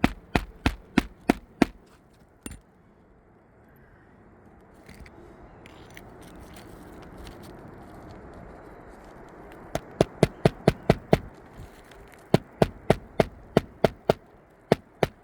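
Hammer blows on an asphalt shingle roof, coming in quick runs of about three strikes a second, with a pause of several seconds in the middle: nails being driven during a shingle repair.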